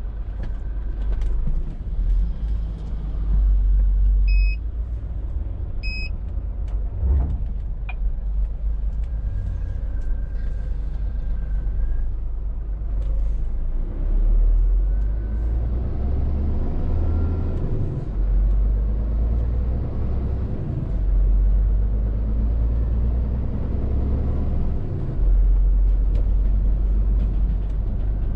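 Scania R450 lorry's 13-litre six-cylinder diesel running on the move, a constant low rumble whose pitch rises and falls several times as it pulls and changes gear. Two short electronic beeps sound about four and six seconds in.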